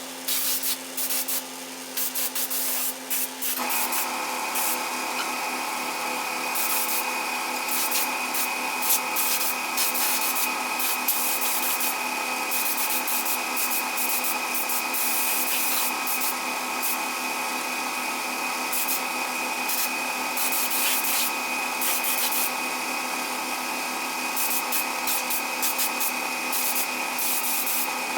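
A power sanding tool working a workpiece: a steady motor hum under continuous gritty rubbing. The hum shifts to a higher set of tones about three and a half seconds in.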